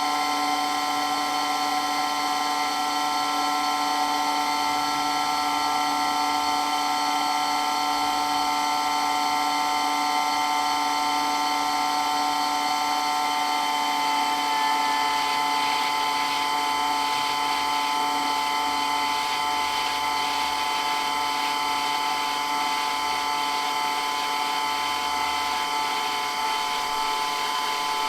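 Water pump running continuously with a steady motor whine made of several unchanging tones over a hiss.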